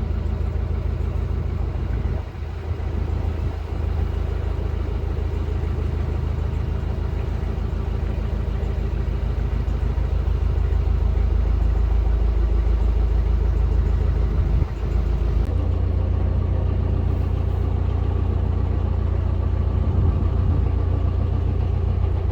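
A narrowboat's diesel engine running steadily under way, a little louder from about halfway through.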